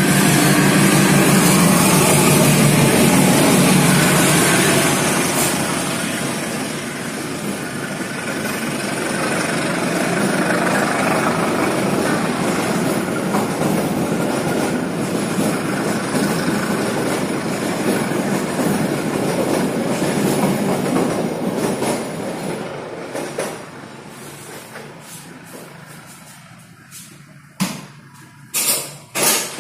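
Diesel-hauled passenger train running past close by, wheels rumbling and clacking on the rails, loudest in the first few seconds and fading after about 23 seconds as the coaches draw away. Several sharp knocks near the end.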